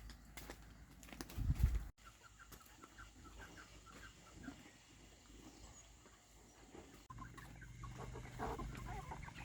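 Chickens clucking in short repeated calls, with a loud low thump about a second and a half in.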